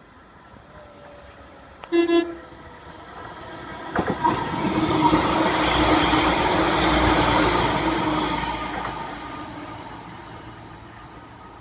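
Northern Class 195 diesel multiple unit sounding a short horn blast about two seconds in, then running through the station at speed. A few sharp wheel clicks come as it reaches the platform, then a rush of wheels and engine with a steady drone swells, is loudest around six to seven seconds in, and fades as the train goes away.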